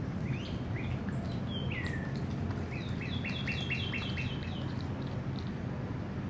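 Birds calling: a few short chirps, a falling call, then a quick run of about seven repeated two-note phrases near the middle, over a steady low rumble.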